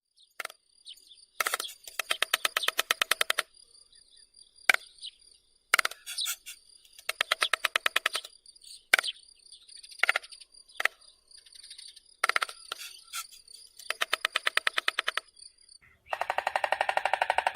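Stork clattering its bill: several runs of rapid clattering, each a second or so long, with single clacks between. Music with percussion starts near the end.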